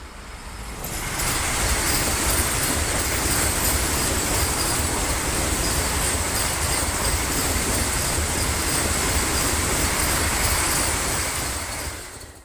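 A train passing close by: a loud, steady rush and rattle of wheels on the rails that builds over the first second, holds, and fades near the end.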